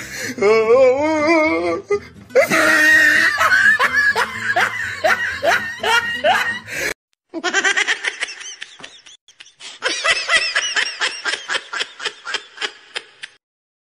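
Laughter in quick repeated bursts over music. It breaks off about seven seconds in, and a second stretch of rhythmic laughter follows and stops shortly before the end.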